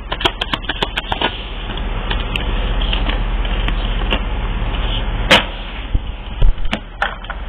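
A deck of tarot cards being handled and shuffled. A quick run of light clicks and taps comes first, then a steady rustle for a few seconds, then a few sharp taps near the end.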